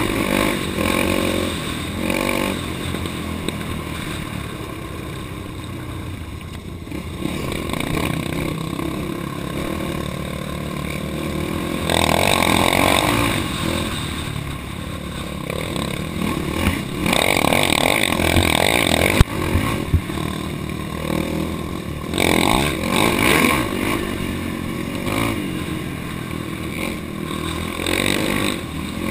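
Off-road vehicle's engine running on a trail ride, the throttle opening and closing so the engine revs up in several surges, with clatter from the machine over rough ground and two sharp knocks about two-thirds of the way through.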